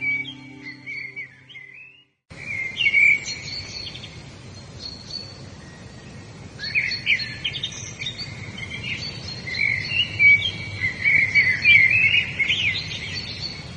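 Wild birds singing, with many quick chirps and trills, over a steady faint hiss of outdoor background noise. Soft sustained instrumental music plays under the birds at the start and cuts out about two seconds in, with a moment of dead silence before the birdsong resumes.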